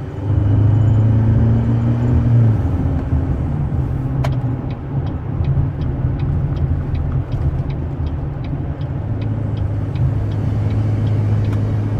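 2016 Chevrolet Colorado's 2.8 L Duramax four-cylinder turbodiesel, fitted with an S&B cold air intake, heard from inside the cab as a steady low drone while driving, shifting in pitch a couple of times. About four seconds in there is a sharp click, followed by a light regular ticking of about two or three a second until near the end.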